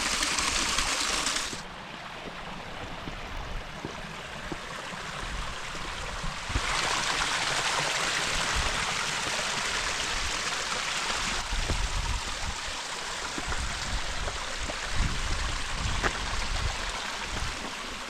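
Small waterfalls splashing into a canyon stream, a steady rush of falling water. It drops a little about a second and a half in and swells louder again for several seconds in the middle.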